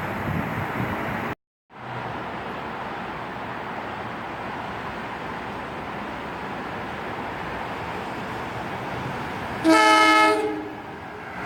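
Steady trackside rumble, broken by a moment of dead silence a little over a second in, then one short, loud blast of a locomotive horn near the end.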